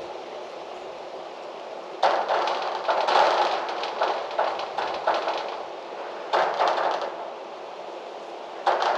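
Gusting wind over a steady rush, rattling and knocking something loose in three bursts of clatter: a long one from about two seconds in, a shorter one around two-thirds through, and another near the end.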